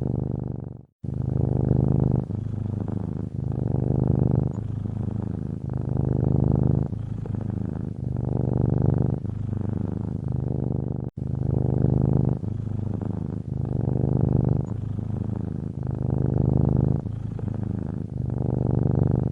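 A domestic cat purring steadily, swelling and easing in a cycle of about two seconds with each breath. The sound cuts out briefly about a second in.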